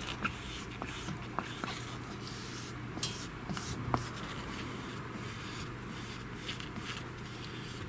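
Plastic squeegee card rubbing and scraping over a phone screen protector to push out air bubbles, with a few small clicks.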